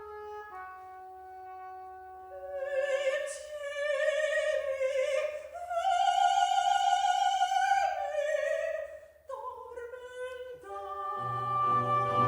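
Soprano singing a baroque opera aria with a period-instrument orchestra. Sustained instrumental notes step in pitch before the voice enters about two seconds in, with wide vibrato and a long held high note. The orchestra's bass line comes in strongly near the end.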